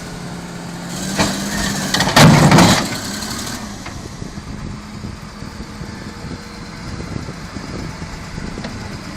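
Heavy-vehicle diesel engine running steadily, with a loud, rough burst of noise lasting about two seconds, loudest a little over two seconds in.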